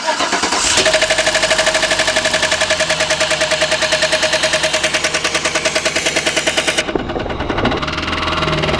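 2011 Chevy Silverado engine, just restarted, running with a loud, rapid, even knocking: the engine fault it was shut down for earlier. About seven seconds in the hiss above the knock drops away and the knocking softens slightly.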